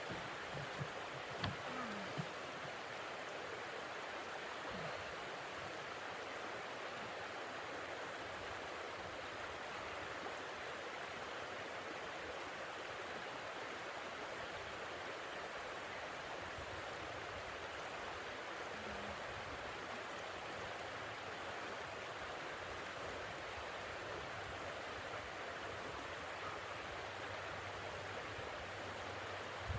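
Steady rushing hiss of blizzard wind and blowing snow, holding one even level, with a few faint ticks near the start.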